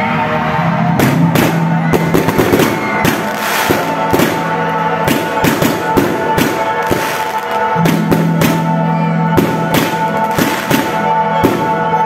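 Aerial fireworks going off in quick succession, a dense run of sharp bangs and crackles. Music with sustained notes plays throughout.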